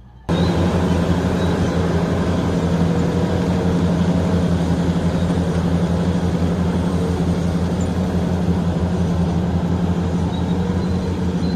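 Heavy mining dump truck's diesel engine running steadily with a low, even throb, heard loud and close. It begins abruptly just after the start and drops off suddenly at the end.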